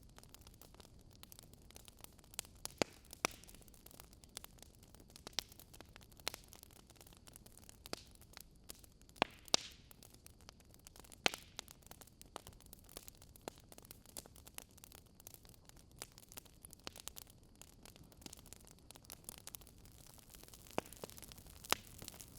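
Barbecue fire burning inside a fireplace, crackling: irregular sharp pops and snaps, a few louder ones standing out, over a faint steady hiss.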